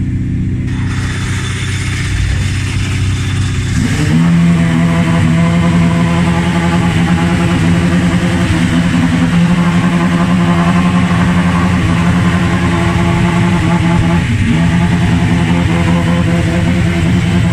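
Ferrari F355 hill-climb race car's V8 engine running at a steady fast idle, after a lower, rougher engine note in the first four seconds. The revs dip briefly and pick straight back up late on.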